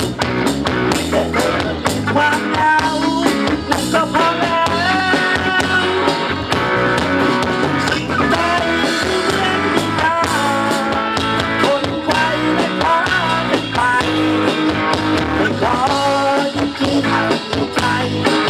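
Live band playing a rock-style song, a stretch without vocals, with guitar lines over a steady beat.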